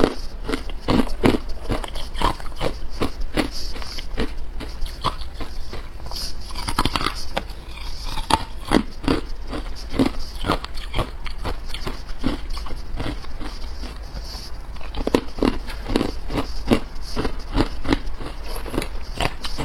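Close-up crunching and chewing of hard carbonated ice, a quick run of sharp crunches, about two or three a second.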